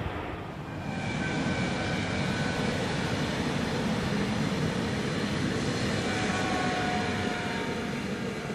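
Train running past: a steady rumble with a faint, steady whine over it.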